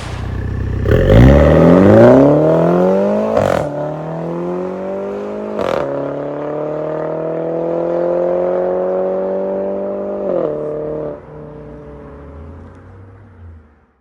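MINI Cooper S (F56) B48 2.0-litre turbocharged four-cylinder through a valved MS-R catback exhaust, accelerating. The engine note climbs steeply over the first few seconds, with short sharp cracks about 3.5 and 6 seconds in, then holds a slowly rising note. It drops about 10 seconds in, then runs quieter and fades out near the end.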